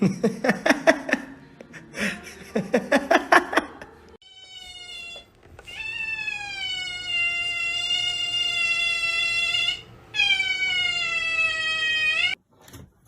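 An animal calling: two quick runs of short pulsing cries, then three long, drawn-out calls, each held steady and sinking slightly in pitch, the longest about four seconds.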